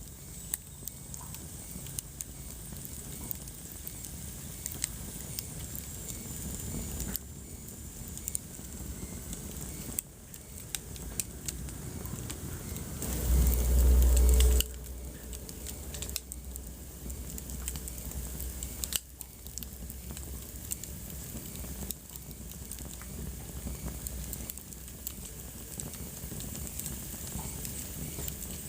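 Wood fire crackling in a fireplace: frequent sharp pops and snaps over a steady low hiss. About halfway through, a loud low rumble swells for about a second and a half and then cuts off suddenly.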